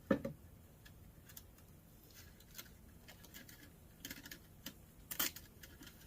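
Scissors trimming screen: a scattered series of light snips and clicks, with a sharper knock right at the start and a small cluster of clicks about four and five seconds in.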